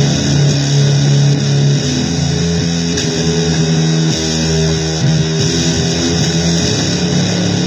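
Electric guitar playing blues-style noise music: held notes that change every second or so, over a thick hiss.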